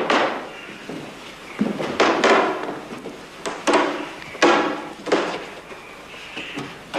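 A series of about eight loud struck sounds at uneven intervals, each ringing with a clear pitch and dying away within about half a second.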